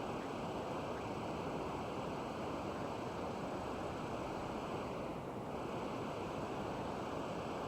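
Steady, even rushing noise with no changes, plus a faint thin high tone.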